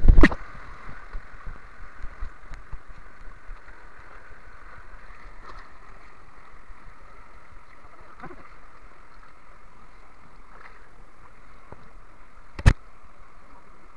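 River water running steadily past a drifting bamboo raft, with a loud sharp knock at the start and another near the end.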